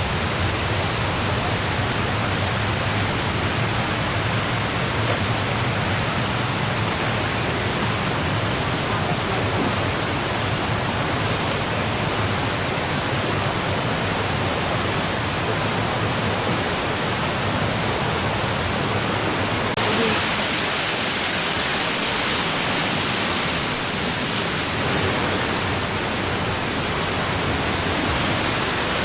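Waterfall rushing with a steady roar of falling water. About twenty seconds in the sound shifts to a brighter hiss with less low rumble.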